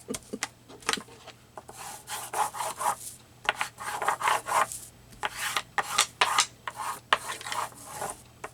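Paper being rubbed and rustled by hand: a string of irregular scratchy strokes, some short and some close to a second long.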